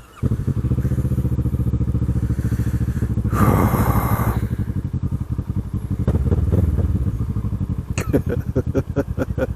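Kawasaki Ninja 650 parallel-twin engine coming in suddenly about a quarter second in and then running at a steady idle. A brief rush of noise cuts in about three and a half seconds in.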